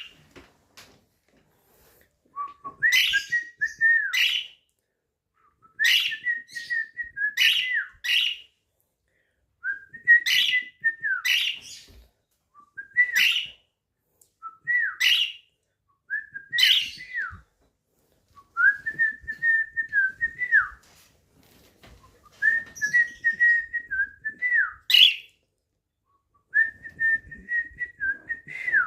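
Budgerigar singing in short bursts: whistled notes broken by sharp chirps, repeated roughly every two seconds with short pauses between.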